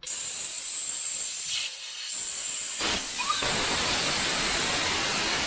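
Compressed air hissing out of an air compressor tank's drain valve as it is opened, blowing out water that the owner suspects has collected in the tank. The hiss starts abruptly and gets louder about three seconds in.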